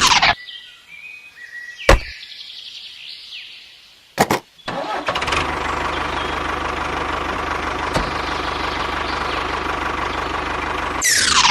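A vehicle engine starting with a couple of sharp bursts about four seconds in, then running steadily. A falling whoosh sweeps down at the start and again near the end.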